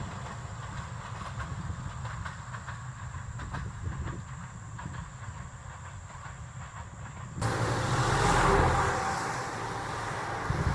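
A train running on the rails with a steady low rumble and a few clicks from the wheels. About seven seconds in, the sound switches abruptly to a louder rushing hiss.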